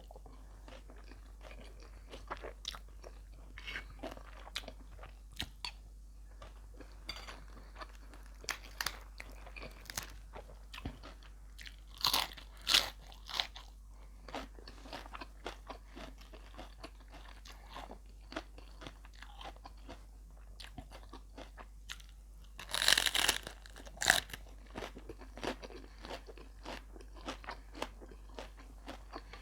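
Close-up chewing and crunching of a mouthful of beef larb with fresh raw vegetables: a run of small wet clicks, with louder crunches about twelve seconds in and again near twenty-three seconds.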